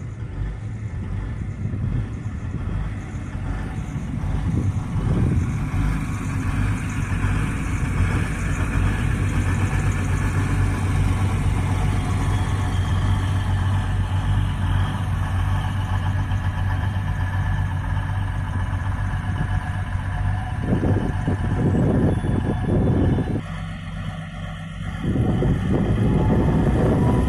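A yellow self-propelled rail vehicle passing close by: a steady engine hum with rolling wheel and track noise that grows louder as it approaches, dipping briefly near the end.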